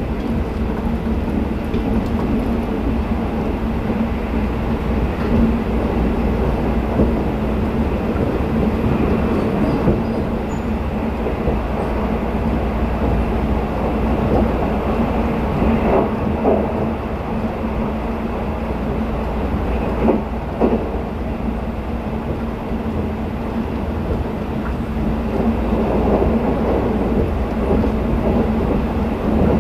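Twilight Express sleeper train running at speed, heard from inside the coach: a steady rumble of wheels on rails with a constant hum. A few louder clacks come through about halfway through.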